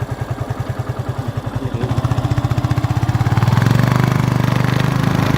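A vehicle engine running with an even pulsing beat, which speeds up and grows louder from about two seconds in as the vehicle accelerates.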